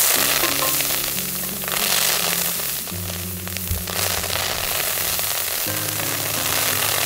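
Fajita filling sizzling steadily in a hot pan, loud and hissing, with background music playing underneath.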